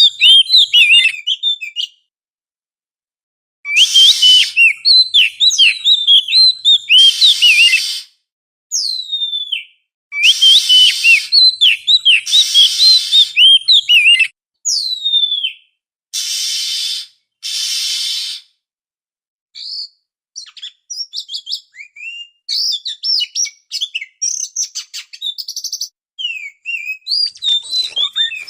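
Oriental magpie-robin song: rapid, varied whistled notes and sweeping chirps in loud bursts, broken by sudden silent gaps.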